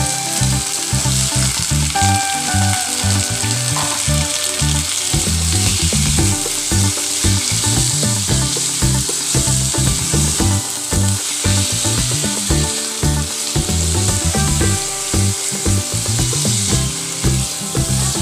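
Food frying and sizzling in a pan, a steady hiss, over background music with a steady beat.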